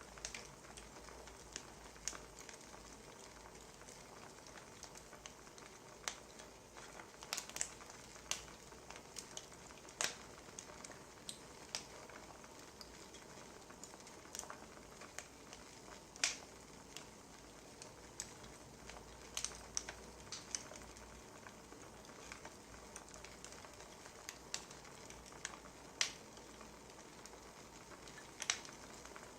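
Wood fire crackling: irregular sharp pops and snaps, a few every couple of seconds, over a faint steady hiss.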